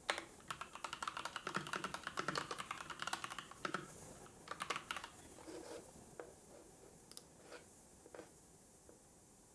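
Typing on a computer keyboard: quick runs of keystrokes for about the first four seconds and a short burst near five seconds, then a few scattered single clicks that thin out toward the end.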